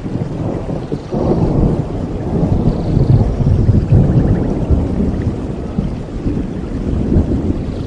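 Thunder rolling over steady rain in a rainforest storm: a long, low rumble that swells about a second in, is loudest in the middle and slowly eases off.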